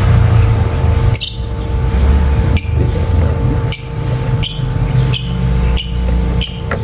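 African lovebirds squawking: short, shrill calls repeated more than once a second, over a loud low rumble.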